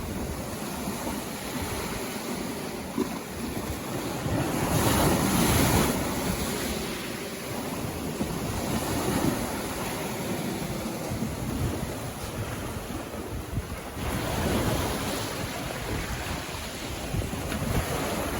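Sea waves washing onto a beach, with a loud surge about five seconds in and another near fifteen seconds. Wind buffets the microphone with a low rumble.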